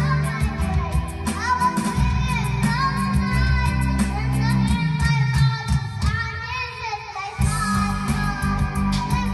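A child singing along to a karaoke machine's backing track, with a steady beat and bass. The bass and beat drop out briefly about two-thirds of the way through, then come back in.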